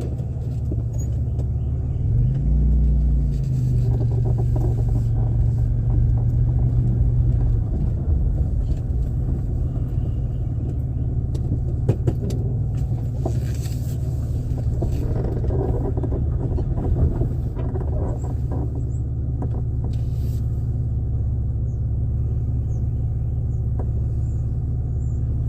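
Car engine running with a steady low drone; a deeper, louder hum comes in about two seconds in and fades out near eight seconds. The owner blames the noise on her car being worn out.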